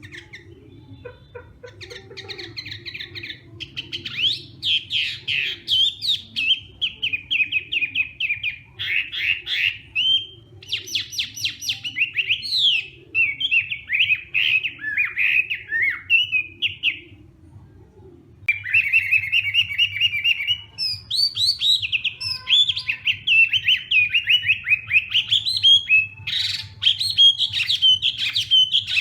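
Chinese hwamei (họa mi) singing a loud, varied song of fast whistled phrases and rapid repeated notes. It pauses for about a second about two-thirds of the way through, then starts again.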